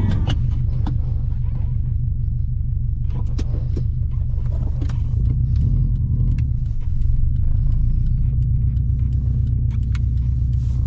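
Subaru Impreza WRX's turbocharged EJ20 flat-four engine running under way, a steady low rumble with a few light clicks scattered through it.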